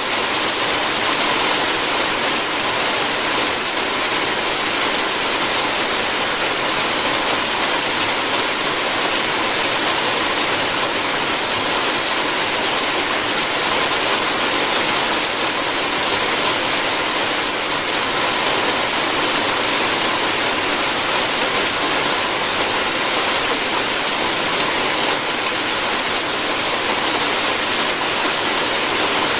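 Steady rain falling on a roof: an even, unbroken hiss that holds the same level throughout.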